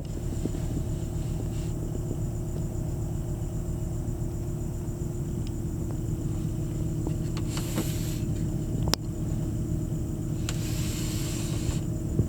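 2000 Volvo V70 XC's turbocharged five-cylinder engine idling steadily shortly after a cold start. A short hiss comes about two-thirds of the way through, then a sharp click, then a longer hiss near the end.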